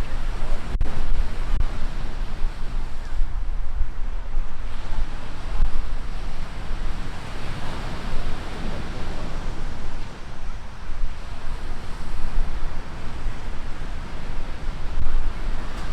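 Sea surf washing on a beach, with wind buffeting the microphone in low rumbling gusts. The wash swells louder about halfway through.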